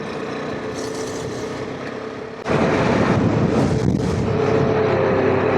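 KTM 390 Adventure's single-cylinder engine running with a steady hum at low speed. About two and a half seconds in, the engine and road noise suddenly get much louder and stay that way.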